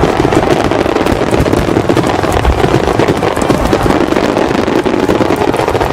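Fireworks display: a dense, continuous stream of rapid bangs and crackles, with no let-up.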